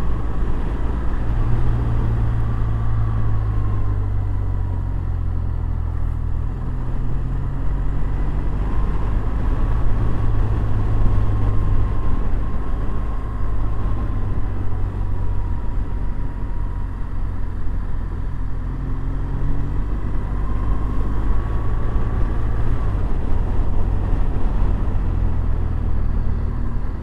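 Motorcycle engine running at road speed with wind and road noise, its pitch rising and falling slowly as speed changes.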